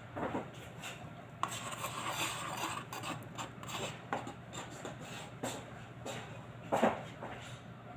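Irregular clinks, knocks and scraping of hard objects being handled, with a louder knock about seven seconds in.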